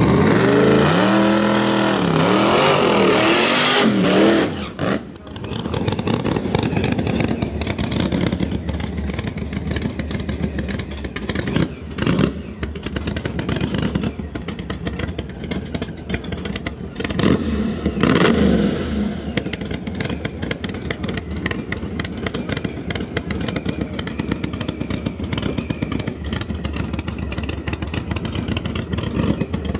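Supercharged drag-racing truck accelerating hard, the engine pitch climbing and dropping with each gear change for the first few seconds, then a long stretch of rough, crackling engine noise and clatter, swelling briefly twice.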